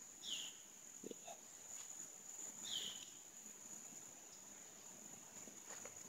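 A bird giving two short, high calls that slide downward, about two and a half seconds apart, over a steady high-pitched insect drone.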